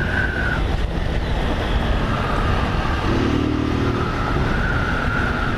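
Honda 160 motorcycle's single-cylinder engine running at a steady cruising pace on a gravel road, under a constant rush of wind and tyre noise.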